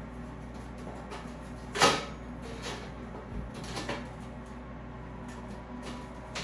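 Steel filter-cage panels knocking and clunking as they are handled and set in place: a sharp clunk about two seconds in, a few lighter knocks, and another loud clunk at the end.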